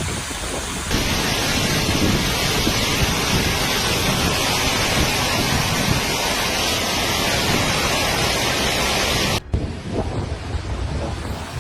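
Loud, steady rushing noise of a flash-flood storm: heavy rain and running floodwater. It changes abruptly about a second in and again about nine and a half seconds in, where it drops to a quieter, rougher rush.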